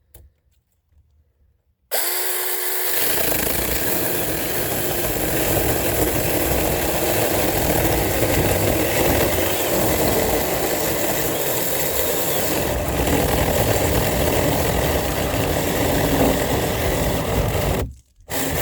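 Mini chainsaw starts about two seconds in with a brief whine as the chain spins up, then runs steadily while cutting through a thick log, which it struggles with as the cut closes in on the bar. It stops briefly near the end and starts again.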